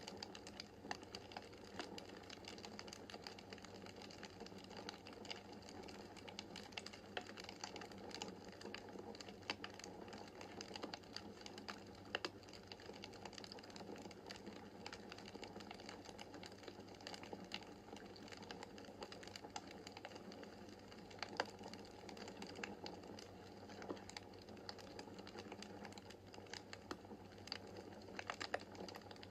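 Wood fire crackling in a fireplace: a steady soft bed of small irregular crackles with occasional sharper pops, the loudest about 21 seconds in.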